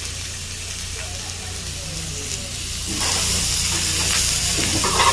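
Meat sizzling on a hot iron griddle plate, a steady hiss that grows louder about three seconds in.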